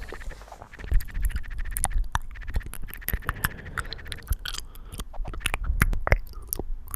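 Keyboard keys clicking in quick, irregular strokes. A buzzy tone comes and goes over them, most plainly just after the middle.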